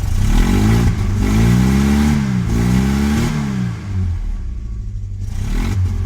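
Ford CVH four-cylinder petrol engine revved by the throttle about three times, the pitch rising and falling with each blip, then settling back to a rough idle. It is running with the lambda sensor disconnected and misfiring, as if on only two or three cylinders, in the owner's words.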